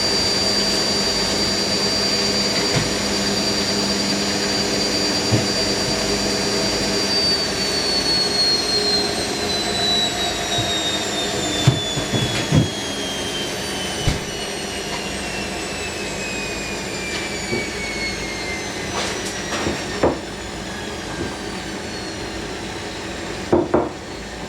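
Hoover NeXtra HNL3146 washing machine at the end of its final spin. The motor's whine holds steady, then from about seven seconds in falls steadily in pitch as the drum spins down, with a few scattered knocks.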